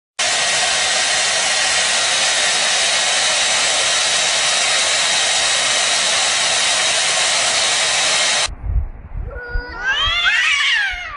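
A loud, steady hissing noise for about eight seconds that cuts off abruptly. Then a cat gives one drawn-out meow that rises and falls in pitch, near the end.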